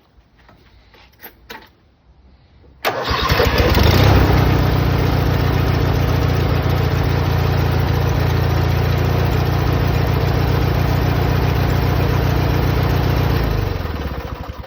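Yard tractor's small engine cranked by its starter on a 550 cold-cranking-amp battery, catching after about a second of cranking, running steadily for about nine seconds, then shut off and winding down near the end. A couple of faint clicks come before it starts.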